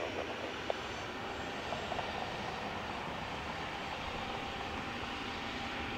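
Jet airliner engines at takeoff power, a steady noise with a faint steady whine coming in about three seconds in.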